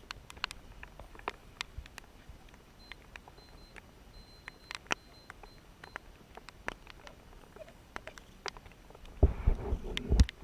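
Raindrops tapping irregularly as sharp little ticks, with a faint high electronic beeping a few seconds in. Near the end there is a brief loud low rumble on the microphone.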